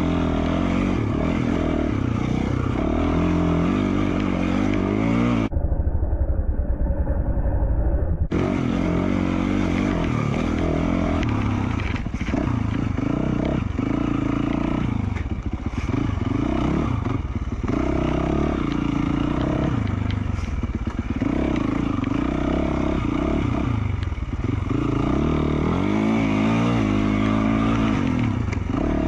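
2020 Yamaha YZ450F's 450 cc single-cylinder four-stroke dirt bike engine, through an FMF Q4 slip-on exhaust, revving up and down repeatedly while riding a trail. About six seconds in, for some three seconds, the engine's higher sound is smothered by a low rumble.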